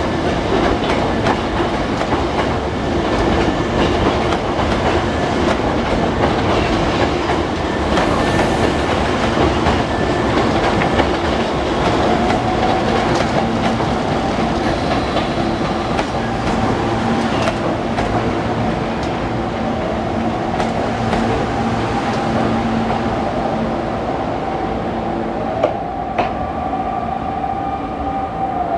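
Hankyu electric train running, its wheels clicking steadily over rail joints and points. A steady whine joins about twelve seconds in and begins to fall in pitch near the end.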